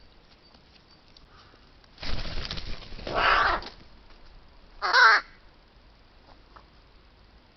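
A crow-type bird cawing: a harsh, noisy burst about two seconds in that ends in a call, then one short, loud caw about five seconds in.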